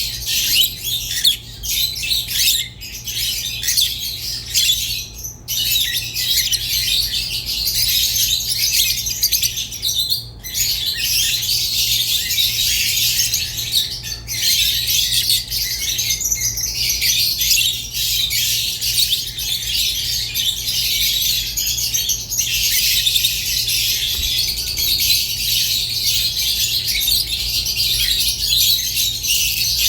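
Peach-faced and Fischer's lovebirds chattering and squawking continuously in a shrill, high-pitched stream, broken by a few brief pauses. A faint steady low hum runs underneath.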